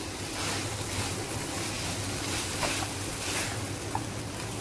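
Chicken and vegetable stuffing sizzling in a non-stick frying pan while a wooden spatula stirs it in repeated strokes, with a couple of light taps of the spatula against the pan.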